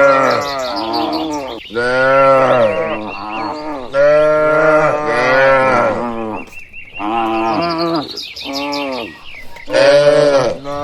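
A herd of cattle mooing, one long low call after another with short gaps, overlapping as animals answer each other.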